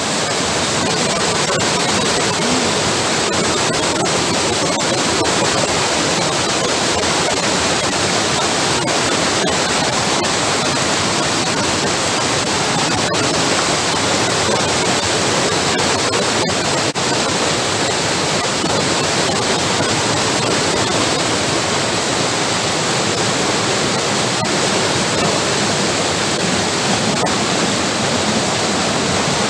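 Waterfall's water rushing, a steady, loud, unbroken noise of falling water.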